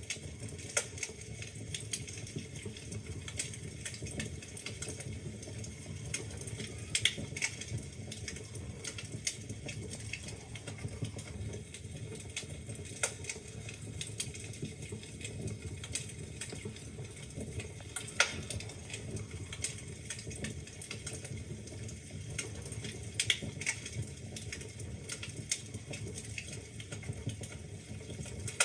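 Wood fire burning in a fireplace: a steady low rumble of flames with constant small crackles and a few sharper pops from the logs.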